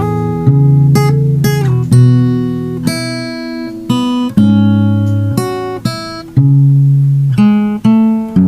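Music played on a plucked guitar: a slow run of picked notes and chords, each struck sharply and left ringing as it fades.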